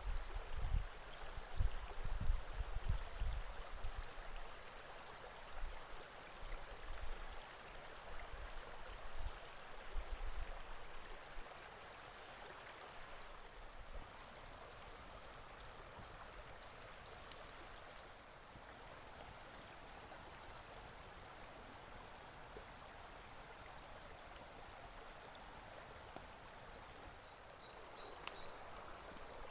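Steady rush of running water, like a stream, with low dull knocks and rumbles over the first ten seconds or so.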